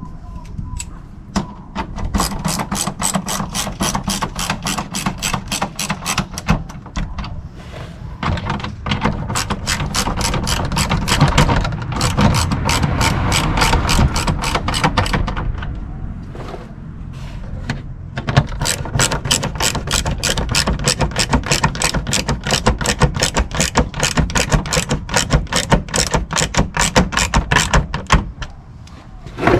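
Hand socket ratchet clicking rapidly in long runs of even clicks, with a few short pauses, as fasteners are run in and tightened.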